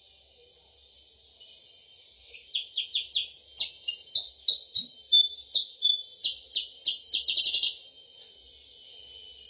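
Kutilang sutra lure recording: a bird's call of short, high chirps in quick series. The chirps start about two seconds in and speed up into a rapid rattle near the end.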